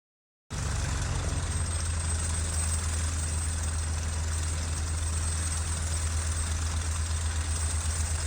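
Recorded sound effect of an engine idling steadily with a deep, fast throb, starting abruptly about half a second in.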